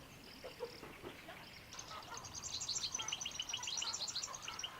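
Small birds chirping in a quick run of short, high notes, several a second, starting a little under two seconds in.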